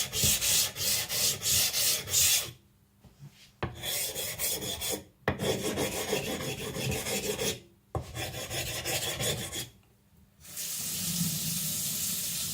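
Gritty stone-on-stone scraping as the Naniwa Professional 3000 whetstone is rubbed back and forth against a 140-grit flattening plate, rounding off its corners after flattening. The scraping comes in four quick spells of rapid, even strokes with short pauses between them. A steady hiss follows near the end.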